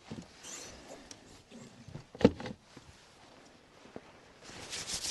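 Scattered small clicks and rustles, one sharp knock about two seconds in, then a rapid scraping or rubbing noise starting near the end.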